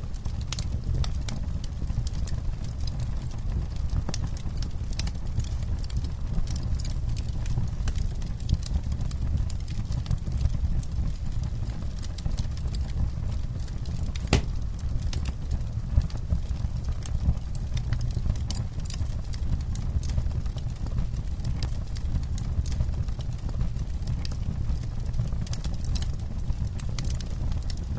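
Campfire crackling: frequent irregular sharp pops and snaps over a steady low rumble of burning wood, with one louder pop about halfway through.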